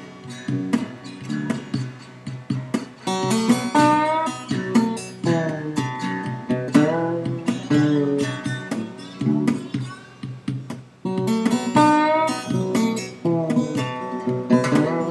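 Background music: acoustic guitar picking a steady, rhythmic tune.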